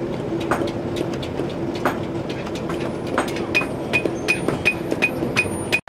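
Blacksmith's hammer tapping on metal over a steady machine hum. The taps come about once a second at first, then quicken to about three a second with a short ring on each. The sound cuts off abruptly just before the end.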